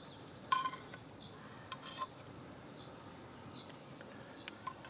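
A serving utensil clinking against dishware as food is dished out: a short ringing clink about half a second in and another about two seconds in. Faint high chirps sound behind it.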